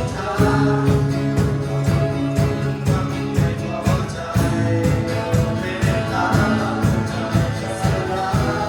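Worship band playing a Christian worship song, with a steady drum beat, bass and singing.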